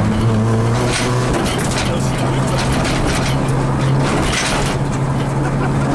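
Rally car engine heard from inside the cabin, running at fairly steady revs, with a few short crackles and rattles over it.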